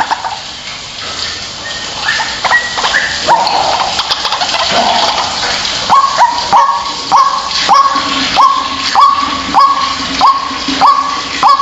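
White-breasted waterhen calling: a few scattered notes, then from about halfway a regular series of short, sharp notes, nearly two a second, over a steady hiss.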